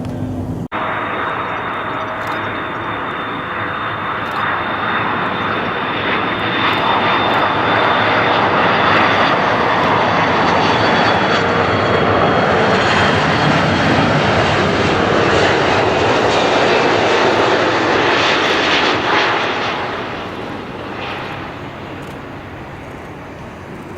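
Airliner passing close: engine noise swells over several seconds, holds at its loudest for about ten seconds, then fades away, with a high whine that drops slightly in pitch. The sound begins abruptly just under a second in.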